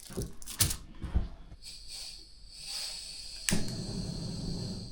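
Potatoes going into hot frying oil. A few knocks of handling come first, then about three and a half seconds in a sudden, steady sizzling starts.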